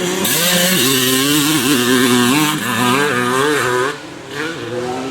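Vintage motocross bike engines revving hard on the track, the pitch climbing and falling as the throttle is worked. The sound drops away sharply about four seconds in.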